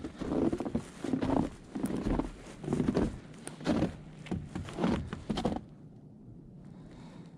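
Footsteps crunching along a forest trail at a walking pace, about eight steps, then stopping about three quarters of the way through.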